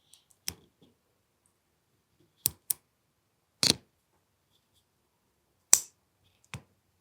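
About six sharp, irregularly spaced mechanical clicks and snaps from an AAP-01 airsoft pistol's action being worked by hand, testing a newly fitted disconnector. The loudest snap comes about three-quarters of the way through.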